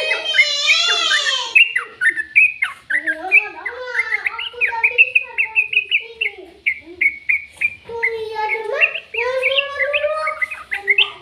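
A bird chirping and chattering without pause: quick high chirps mixed with gliding, warbling notes.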